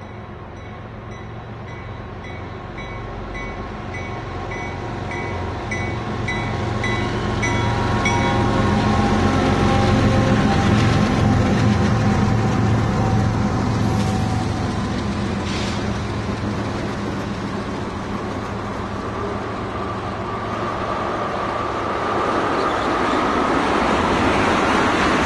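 Freight train led by diesel locomotives passing. A grade-crossing bell rings about twice a second for the first eight seconds, then the locomotives' engine rumble is loudest around ten seconds in. After that comes the steady rolling clatter of tank cars, building again near the end.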